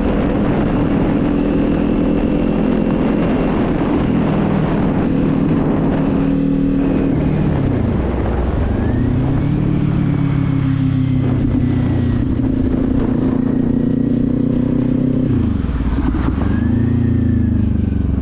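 Motorcycle engine with a Leo Vince aftermarket exhaust pulling through the gears. Its pitch climbs, then drops and rises again at shifts about 8 and 16 seconds in.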